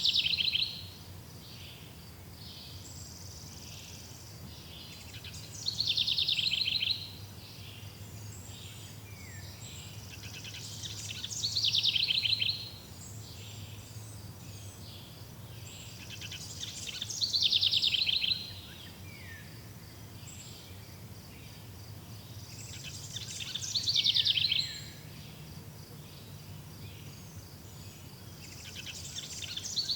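A songbird singing the same short, high phrase over and over, about every six seconds; each phrase builds up over about a second and a half, then breaks off into a few short falling notes. A faint steady hiss and low hum lie underneath.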